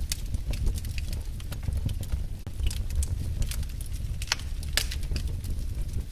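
Fireplace fire crackling, with irregular sharp pops over a steady low rumble of the flames; the loudest pops come a little past the middle.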